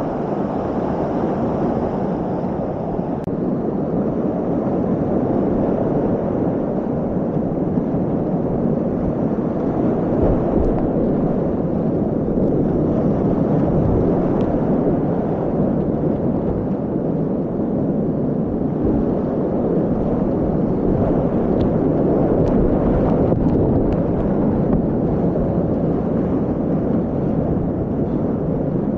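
Loud, steady rush of whitewater in a continuous Class 4 rapid.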